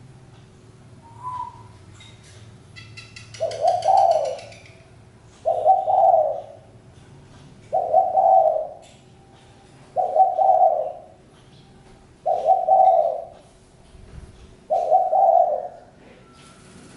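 Spotted dove cooing: six low coo phrases of about a second each, repeated every two seconds or so.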